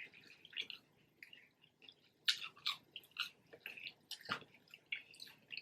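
Close-miked chewing of French fries: soft, irregular mouth clicks and crackles, with a couple of louder bites about two and four seconds in.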